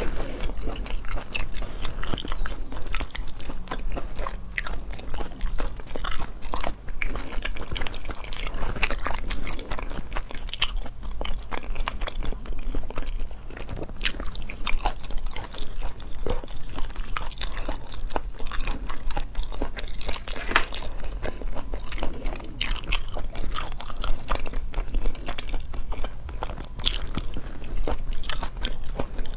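Close-miked eating: a person biting and chewing pieces of spicy braised food by hand, with many short crunches and crackles through the chewing, over a steady low hum.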